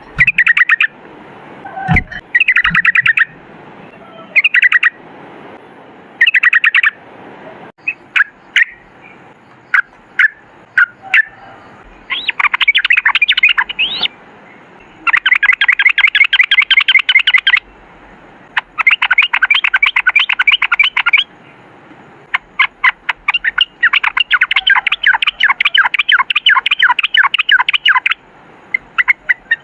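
Yellow-vented bulbul (trucukan) singing. At first it gives short bubbly phrases and single calls. From about twelve seconds in it switches to long, very rapid runs of chattering notes, each two to three seconds long, the rolling "ropel" song that keepers play to get their own birds singing.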